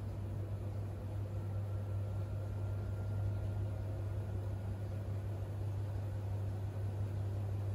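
Siemens iQ700 front-loading washing machine running in its main wash: a steady low hum under an even machine noise, with a faint thin whine.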